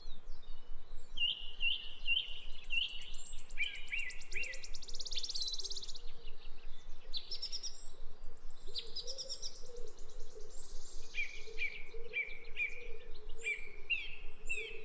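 Songbirds singing: repeated short chirping phrases and fast buzzy trills, layered over one another.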